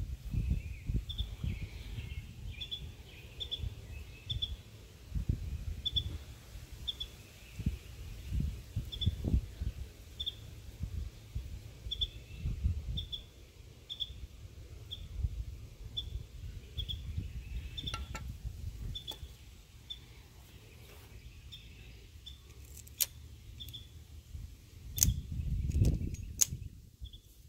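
A bird calling a short high chirp over and over, about once a second, over a low rumbling noise on the microphone. A few sharp clicks come in the second half.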